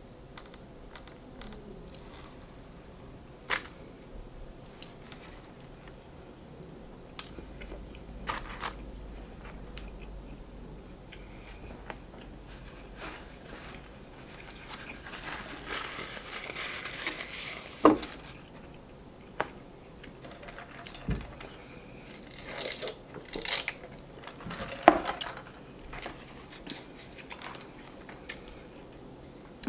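Close-miked chewing and mouth sounds of a person eating a honey-topped biscuit, with scattered sharp clicks and a few seconds of rustling about halfway through. Near the end a plastic fork scrapes and clicks in a paper cup of coleslaw.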